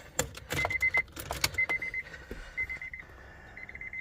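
A 1999 Honda Prelude's warning chime beeping in short bursts of rapid pulses about once a second, with clicks and rattling in the first second and a half.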